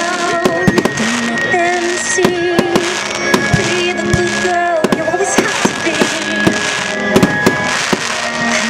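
Firework shells bursting in quick, irregular succession, many sharp bangs and crackles, over loud music with a singing voice.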